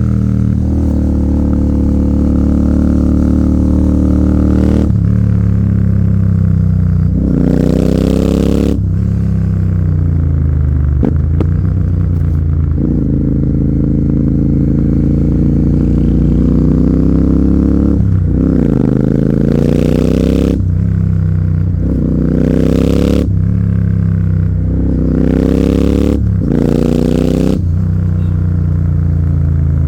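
Royal Enfield Continental GT 650's 648 cc parallel-twin engine running through an aftermarket AEW 103 exhaust, accelerating hard. Its note climbs in pitch and drops back several times, most often in the second half, with one long fall in pitch near the middle.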